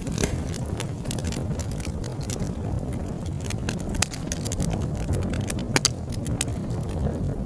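Wood fire crackling and popping over a steady low rumble of burning, with sharper pops at about four seconds and near six seconds.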